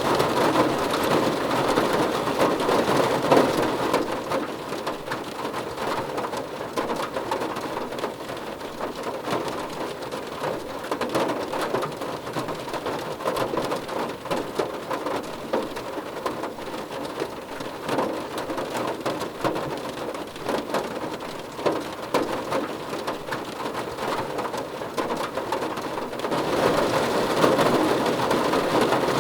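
Rain falling steadily on a car roof: a dense hiss of countless small drop impacts. It eases a few seconds in and grows heavier again near the end.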